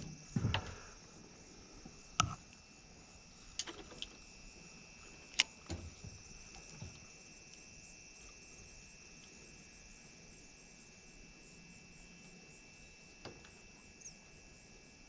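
Insects buzzing steadily in the background, with a few sharp clicks and knocks over the first six seconds and two fainter ones near the end.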